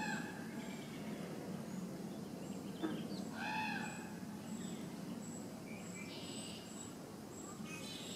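A bird giving short arched calls, rising then falling in pitch: one at the start, one about three and a half seconds in, and shorter calls near the end, over steady outdoor background noise with a faint high-pitched repeated tone.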